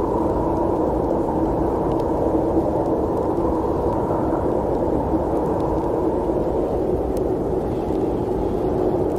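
Steady low rumble of a moving train, an even noise with a faint hum running through it.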